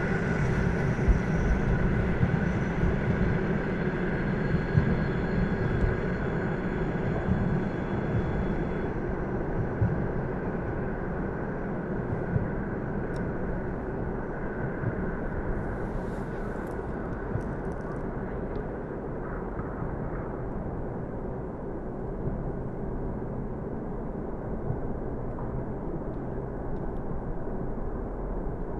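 Passenger train rumbling on the rails as it moves away, its sound slowly fading and losing its higher tones after about nine seconds.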